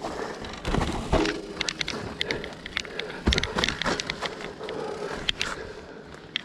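Mountain bike clattering down a rough trail: irregular rattles and knocks from the frame and drivetrain over bumps, with a heavy knock about three seconds in.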